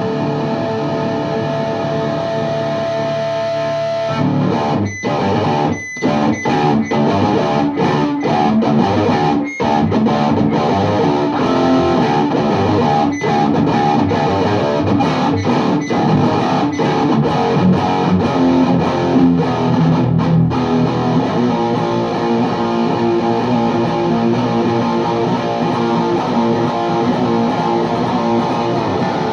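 Distorted electric guitar, a Les Paul Custom through a VHT Deliverance D60 KT88 tube amp at high gain, heard through a miked 4x12 cabinet. A held chord rings for about four seconds, then a riff breaks in with sudden stops, and it eases into longer held notes near the end.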